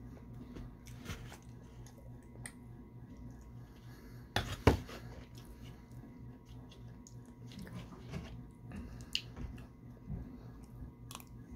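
Close-up chewing and mouth sounds of someone eating apple pie with cream, with scattered small clicks of a metal fork in the pie container and one sharp knock about halfway through, over a steady low hum.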